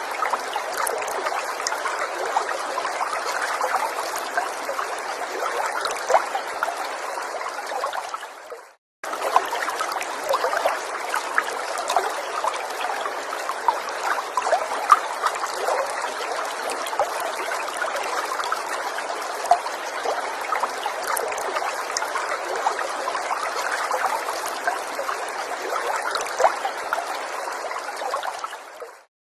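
Gentle forest stream trickling steadily, with many small splashes and drips. The sound briefly fades out and cuts back in about nine seconds in, then fades out again at the very end, like the seams of a looped recording.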